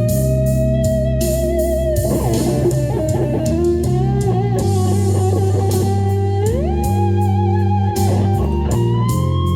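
Lead electric guitar played over a blues-rock backing track with bass and drums. Long held notes with vibrato, a quick run of notes about two seconds in, and slides up to higher held notes past the middle and again near the end.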